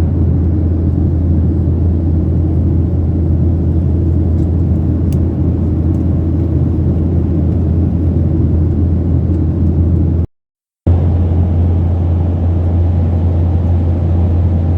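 Steady low cabin drone inside a Boeing 737-800 in flight, the rumble of its CFM56 engines and rushing air. It cuts out abruptly for about half a second around ten seconds in, then resumes unchanged.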